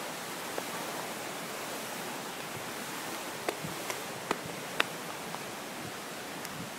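Steady rush of a rainforest river's running water, with a few faint clicks about halfway through.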